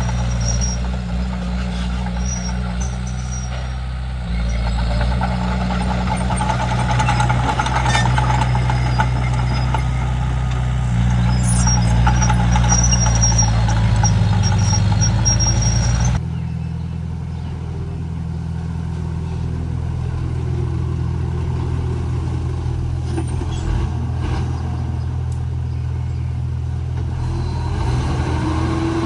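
Komatsu D31P bulldozer's diesel engine running steadily under work. The engine note changes abruptly a little over halfway through, dropping its deepest tone.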